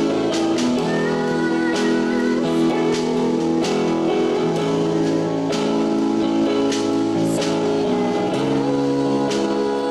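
Live band music with guitar, playing a song at a steady level, with notes held and regular strokes about once a second.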